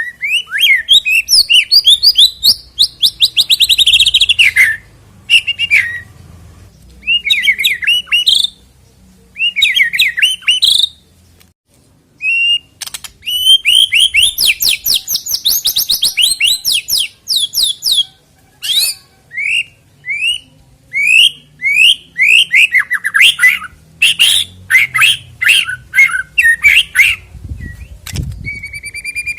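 White-rumped shama (murai batu) singing: rapid, varied phrases of whistles and chattering trills in loud bursts with short pauses between them. This is a lure song played to make other shamas start singing.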